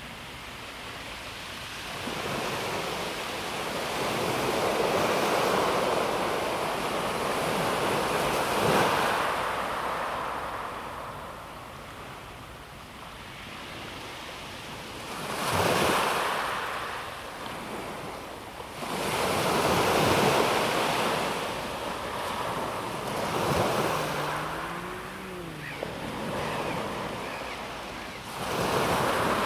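Calm sea waves breaking and washing over a pebble beach, the wash swelling and fading every few seconds. A brief faint wavering tone sounds about twenty-five seconds in.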